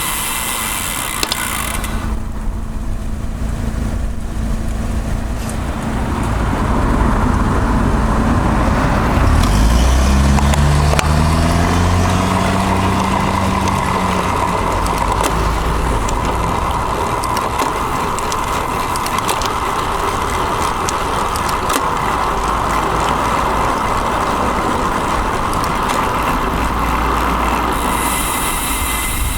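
Wind and road rumble on a bike-mounted action camera's microphone while riding among road traffic, with a motor vehicle's engine rising in pitch as it speeds up about ten seconds in.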